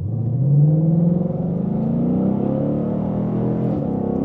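Ford Mustang GT's 5.0-litre V8 accelerating hard from low revs, its note rising steadily in pitch as it pulls.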